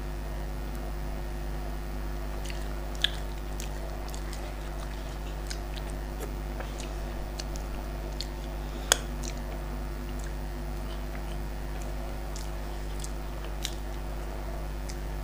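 Close-miked chewing and mouth sounds of a person eating rice and fish curry by hand, with scattered small wet clicks and two sharper clicks about three and nine seconds in. A steady electrical hum lies underneath.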